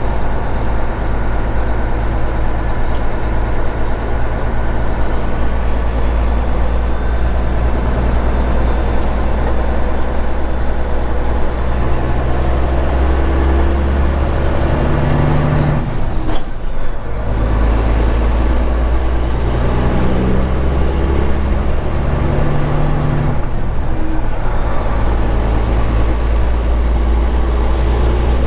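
Straight-piped Caterpillar 3406E inline-six diesel truck engine pulling hard while driving, with a turbo whistle that rises and falls as boost builds and drops. The engine note breaks off briefly about halfway through, as on a gear change, then pulls again.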